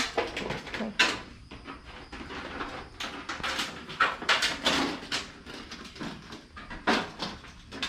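A quick, irregular run of knocks, clicks and scrapes from hands-on installation work, with metal parts and tools being handled.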